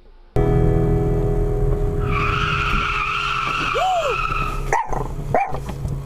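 Car tyres screeching in a skid for about three seconds over the steady drone of a moving vehicle. The sound drops out briefly twice near the end.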